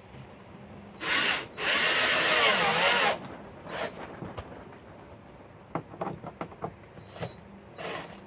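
Power drill driving a screw into the plastic canoe: a short blip, then a run of about a second and a half with the motor speed wavering. A few brief bursts and light clicks follow.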